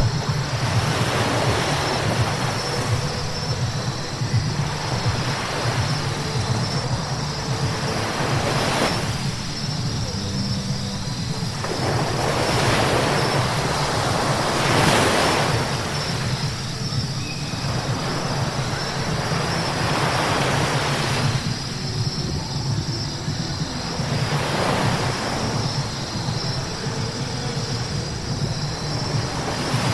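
A car driving on a wet road. A steady low rumble of engine and road noise runs throughout, and a hiss of tyres on wet pavement swells up again and again, each swell lasting a second or two.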